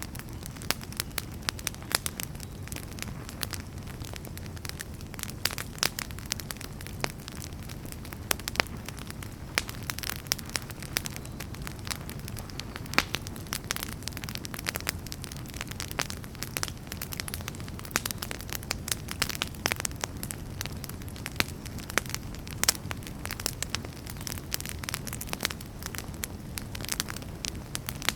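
Wood fire burning in a fireplace: a steady low rumble of flames with dense, irregular crackles and pops from the logs.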